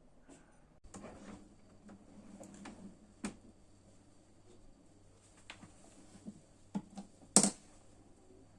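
Scattered light clicks and taps of household objects being handled, with one louder knock near the end.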